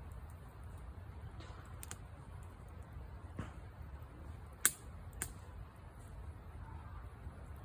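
Wood campfire crackling, with irregular sharp pops, the loudest a little past halfway, over a low steady rumble.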